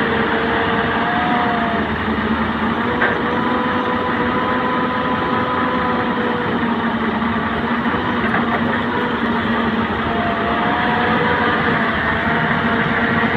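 Heavy diesel engines of an excavator and dump trucks running steadily, with a faint click about three seconds in.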